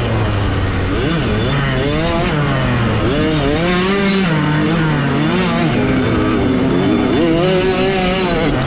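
A 65cc two-stroke motocross bike's engine revving hard under race throttle, its pitch climbing and dropping again and again, every second or so.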